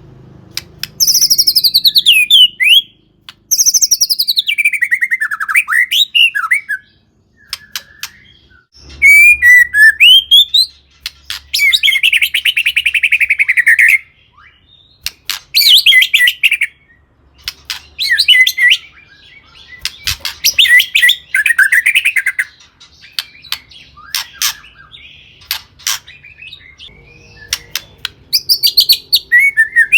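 White-rumped shama singing loudly in a string of varied phrases, each a second or three long with short pauses between: clear whistles sweeping downward, quick trills and chattering notes. This is the full, energetic song with mimicked notes that keepers use to prompt other shamas to sing.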